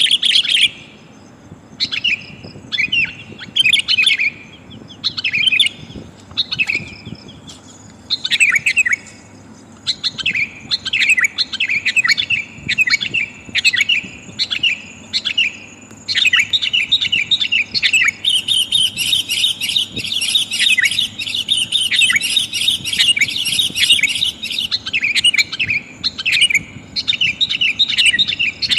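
Female sooty-headed bulbul (kutilang) calling to draw a male, the kind of call used as a lure for wild birds. Short chirping phrases come about once a second, then run together into a dense, continuous chatter about halfway through, before returning to separate phrases near the end.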